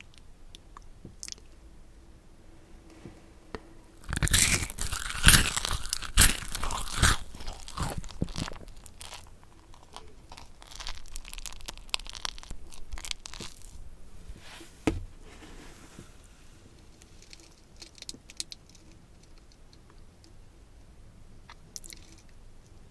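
Close-miked crunchy food being bitten and chewed: a loud spell of crunching starts about four seconds in, then softer, intermittent chewing crunches that die away, with a few small clicks.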